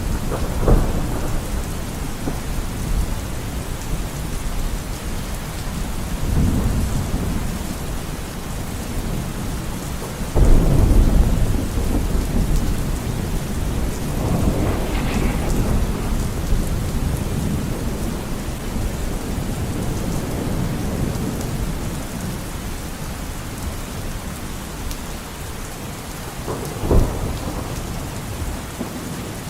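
Steady heavy rain with rolls of thunder: several low rumbles come and go, the loudest starting about a third of the way in, and a sharper clap near the end.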